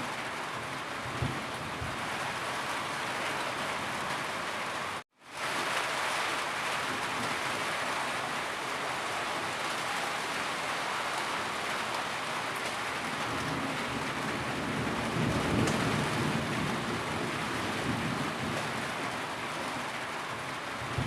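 Steady heavy rain falling, an even dense hiss. It cuts out completely for a split second about five seconds in, and a low rumble swells briefly about three quarters of the way through.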